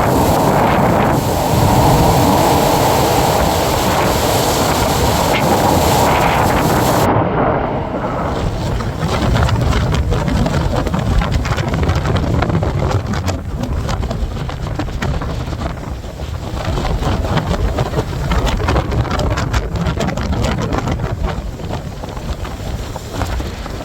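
Strong blizzard wind buffeting the microphone, a steady rushing hiss that changes abruptly about seven seconds in to a gusty low rumble with scattered crackles.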